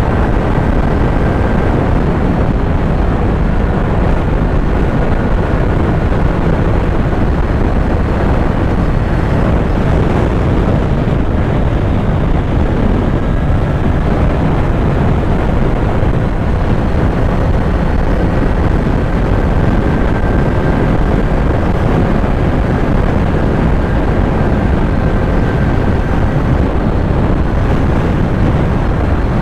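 Kawasaki Z900 motorcycle's inline-four engine running at a steady cruise under a heavy, even rush of wind over the microphone, with no change in revs.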